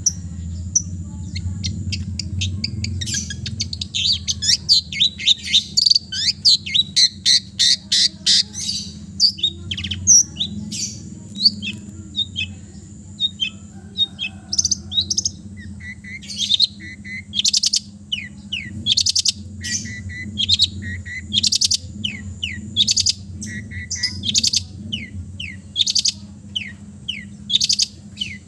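Long-tailed shrike (cendet) singing a varied song full of mimicked phrases. It begins with a fast, dense run of sharp chattering notes, then continues in shorter phrases of quick repeated notes. A steady low hum runs underneath.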